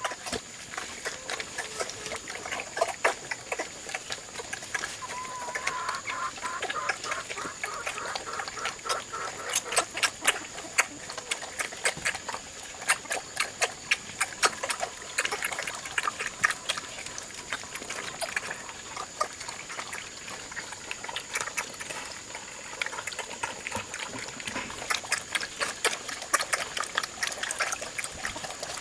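Pigs eating wet feed from a trough, with many irregular smacking, chomping and slurping sounds. A steady high-pitched whine runs underneath.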